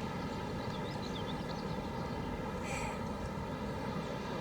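A steady, even hum carrying several fixed tones, with faint short squeaks early on and one brief noisy burst about three seconds in.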